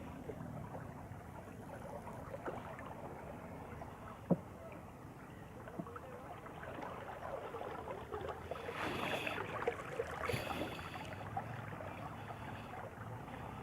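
Water lapping and sloshing around a small wooden river boat, with one sharp knock about four seconds in and louder splashing about two-thirds of the way through.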